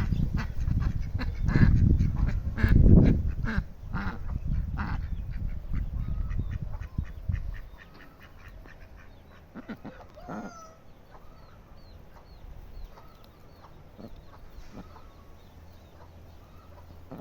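Waterfowl calling in a quick run of short repeated calls over a loud low rumble for the first half, then scattered short calls after the rumble drops away.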